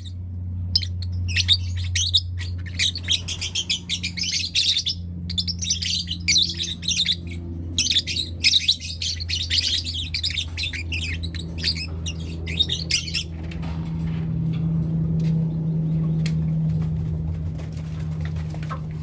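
Lovebirds chirping, a dense run of quick high chirps and calls that stops about two-thirds of the way in. A steady low hum runs underneath, with a few faint clicks after the chirping ends.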